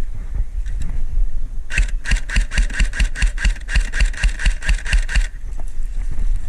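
Airsoft electric gun firing a full-auto burst: rapid, evenly spaced mechanical clicks, about eight a second, starting a couple of seconds in and stopping sharply after about three and a half seconds.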